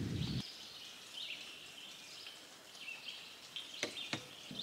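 A songbird repeating a short, high chirping phrase about every second and a half. A low rumble of thunder cuts off abruptly about half a second in, and two sharp clicks come near the end.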